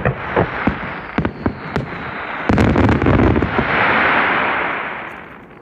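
Fireworks display: a quick run of sharp shell bursts, then a bigger, denser burst about halfway through, followed by a crackling hiss that fades away near the end.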